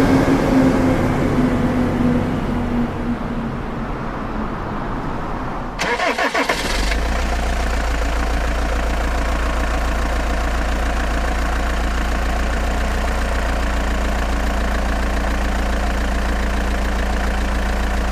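Dump truck engine running with its pitch falling, a short clatter about six seconds in, then a steady low idle.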